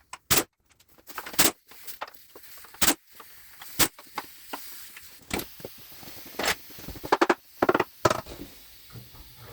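Irregular knocks and clicks of tools and parts being handled in a workshop, spaced a second or so apart, with a quick rattle of several knocks about seven seconds in.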